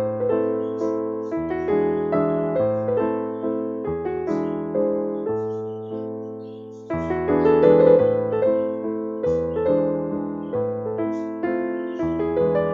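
Background music played on piano or electric piano: a gentle melody of steady notes over a bass line, fading briefly about six seconds in before picking up again.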